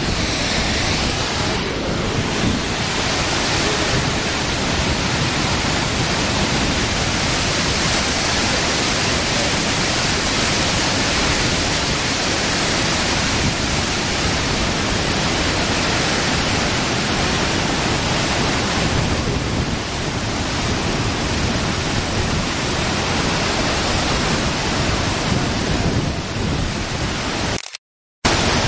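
Great Falls of the Passaic River, swollen after Hurricane Irene: a loud, steady rush of heavy falling water. The sound drops out completely for about half a second near the end.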